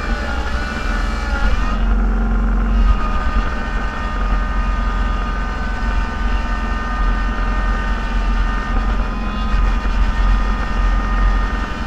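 A snow-plowing vehicle's engine running steadily, heard from inside the cab, with a low rumble and a steady higher whine over it.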